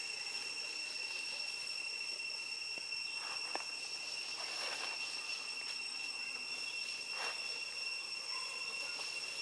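Steady high-pitched insect drone, with a few faint brief rustles in between.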